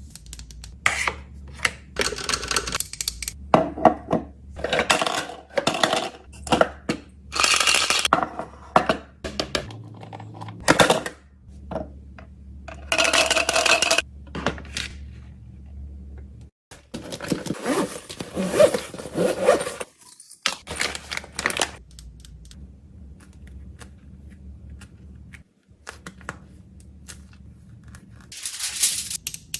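Small plastic fidget toys and their packaging being handled and packed: irregular clicks, clatters and rustling in bursts, with quieter pauses between.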